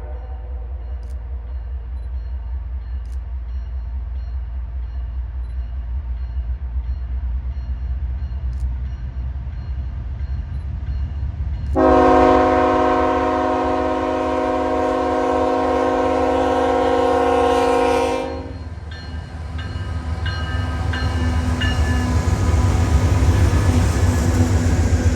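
Diesel locomotive rumbling steadily as a train nears; about twelve seconds in, the locomotive's air horn sounds one long blast of about six seconds, and the train's rumble grows louder near the end.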